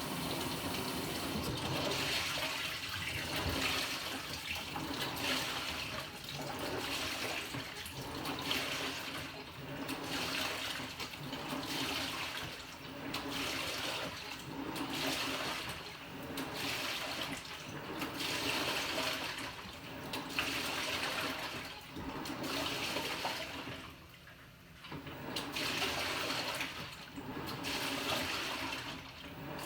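Water sloshing and churning inside a Panasonic NA-FA100H9 top-loading washing machine as its pulsator agitates the load, surging and easing in a regular rhythm about every one and a half to two seconds.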